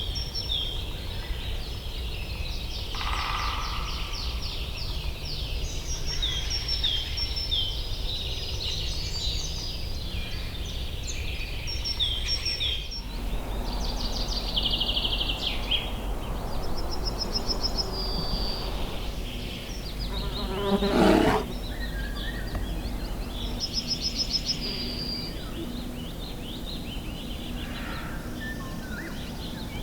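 Birds singing and chirping in many short, repeated phrases over a steady low rumble, with one loud call about two-thirds of the way through.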